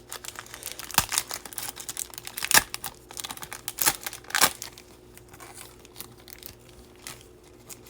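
A Bowman trading-card pack wrapper being torn open and crinkled, a run of sharp crackles that thins out about five seconds in.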